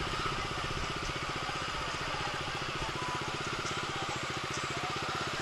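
Bajaj Dominar 250's single-cylinder engine running at low revs as the motorcycle rolls slowly, an even, steady beat of firing pulses.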